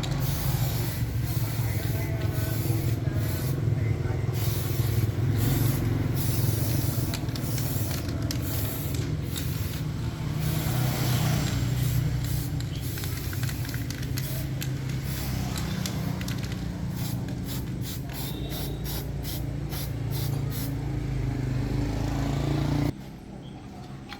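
Homemade motorised roaster running: a steady motor hum with hissing and crackling over it, cutting off abruptly near the end.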